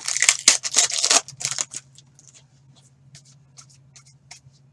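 Panini Contenders hockey cards being handled, with a quick flurry of rustling and flicking for about the first two seconds, then a few scattered light clicks.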